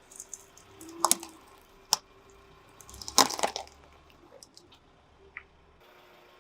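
Objects crushed under a car tyre: scattered crackles, a loud wet crunch about a second in, a sharp snap near two seconds, and the loudest squelching crunch about three seconds in, followed by a few small pops.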